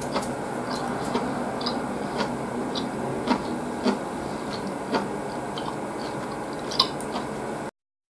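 Close-miked eating sounds of a man chewing ramen noodles, with many small wet mouth clicks and light chopstick taps. The sound cuts off abruptly near the end.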